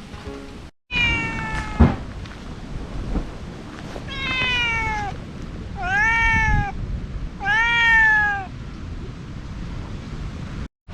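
Domestic cat meowing four times, each meow long and drawn out and falling in pitch, the last three about two seconds apart. A single sharp knock sounds during the first meow.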